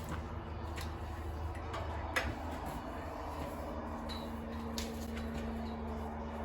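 Steady low hum with a few light clicks and taps scattered through it; a faint steady tone joins about two seconds in.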